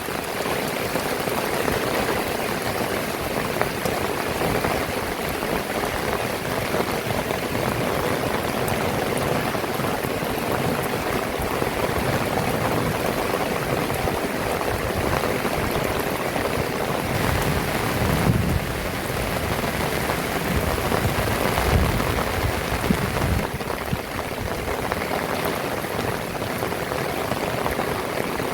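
Heavy rain falling steadily, an even hiss of drops on surfaces, with a few brief low thumps about two-thirds of the way through.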